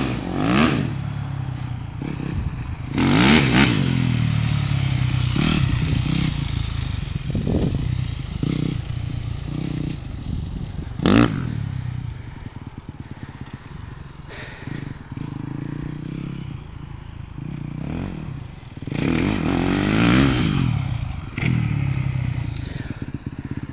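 Motorcycle engine revving up and running as the bike accelerates toward the jump, its pitch rising and falling. A sharp knock sounds about eleven seconds in, and the engine revs up hard again near the end.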